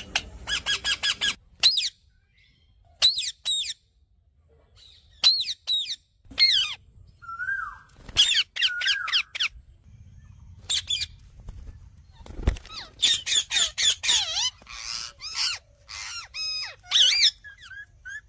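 Pet Indian parrot calling: a fast run of repeated squawks, then short groups of high, rising-and-falling squawks and squeaks with pauses between them. A single dull thump about twelve seconds in.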